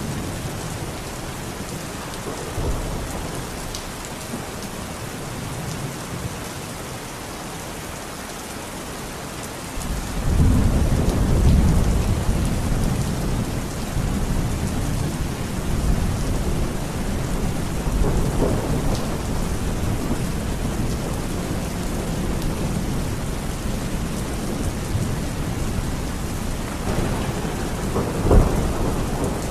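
Steady rain in a thunderstorm. About ten seconds in, a deep rumble of thunder swells and keeps rolling, and a sharper thunderclap comes near the end.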